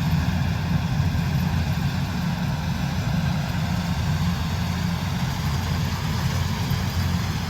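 Kubota DC108X combine harvester's diesel engine running steadily, a deep even hum with no change in speed.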